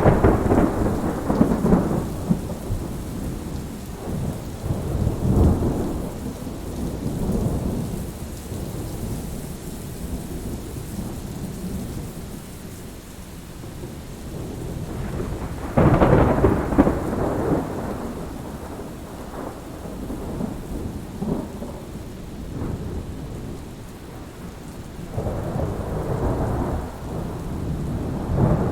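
Thunderstorm: steady rain with rolling thunder, a loud clap at the very start and another about 16 seconds in, each trailing off into long low rumbles, and a further roll building near the end.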